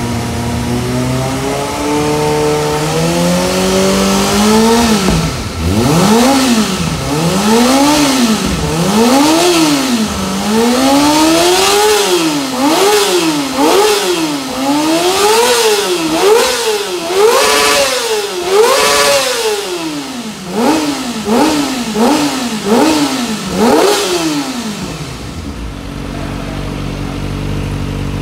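Kawasaki ZX25R's 250 cc inline-four engine revved through an aftermarket Trickstar exhaust. It makes a slow climb in revs, then a long run of throttle blips rising and falling about once a second, quicker near the end, before settling back to idle.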